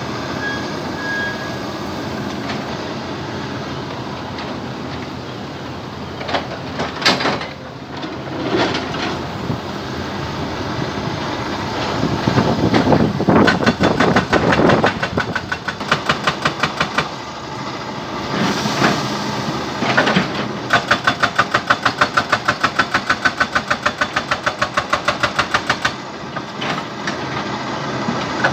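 An engine runs steadily, then a jackhammer pounds rock in spells of rapid, even blows, several a second, with short pauses between them. The blows start about twelve seconds in and run most steadily over the last third.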